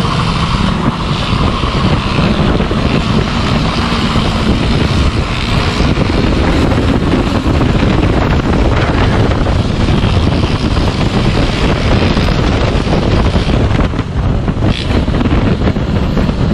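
Vehicle running at speed during a pursuit, its engine rumble buried under heavy wind rushing over the microphone.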